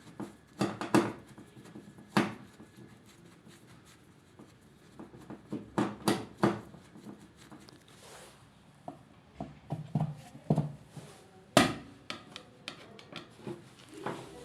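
Irregular knocks, clicks and rubbing as tools and machine parts are handled, with sharp taps at intervals, the loudest a little before the last third.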